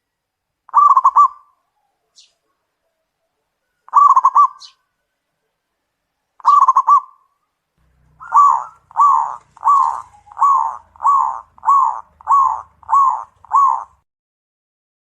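Zebra dove (perkutut) cooing: three short rolling phrases a few seconds apart, then a run of nine even coos, about one and a half a second.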